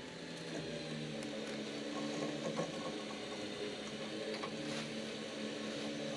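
A motor running steadily with a low, even hum, its pitch shifting slightly once or twice, and a few light clicks.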